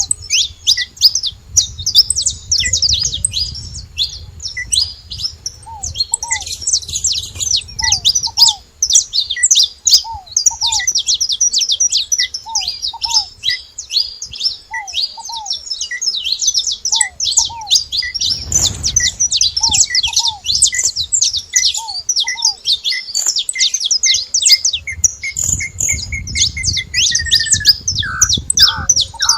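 A flock of saffron finches chirping and chattering without a break, many quick high notes overlapping. Underneath, a lower short note repeats about once a second. Near the end a falling whistle leads into a run of lower notes.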